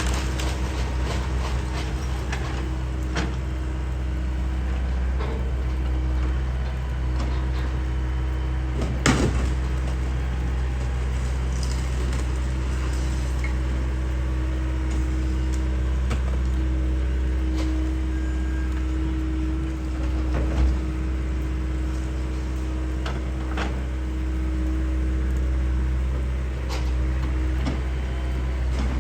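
Diesel engine of a John Deere excavator running steadily under load, with scattered clanks and knocks of the machine at work and one sharp knock about nine seconds in.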